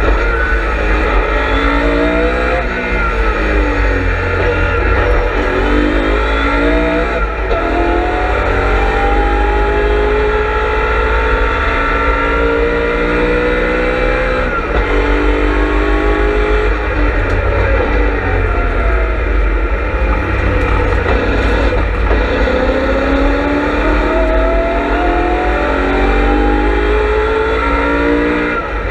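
BMW M3 E92's V8 engine heard from inside the car at racing speed, its pitch climbing under acceleration and falling back several times as the driver shifts gears and brakes for corners.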